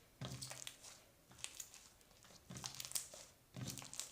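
Clear slime with butter slime mixed in, squeezed and stretched by hand, giving faint crackly, squishy sounds in three or four short bursts.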